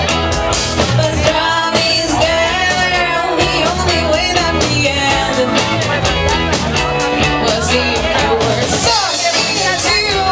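Rock band playing a song live, a singer over the band with a steady, fast beat.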